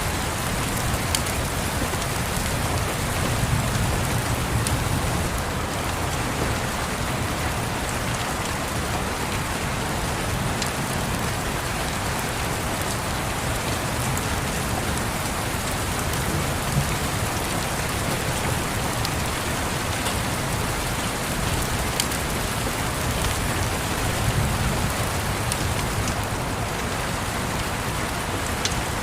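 Steady rain pattering on a window, with scattered small ticks and a few soft, low rolls of distant thunder.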